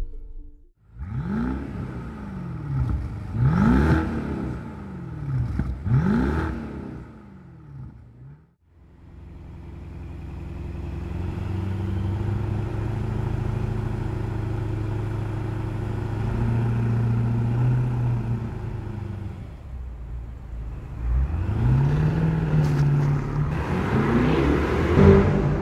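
BMW 650i's 4.4-litre twin-turbo V8 revved in a few quick blips while standing, then idling steadily for about ten seconds. Near the end it rises in pitch as the car pulls away.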